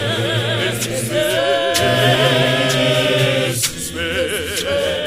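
An unaccompanied choir singing a gospel hymn in harmony, the voices wavering with vibrato over held low bass notes, with brief breaks between phrases.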